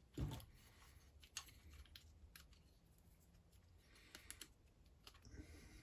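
Faint handling noise from a chainsaw teardown: a soft thump just after the start, then scattered light clicks of small parts and tools.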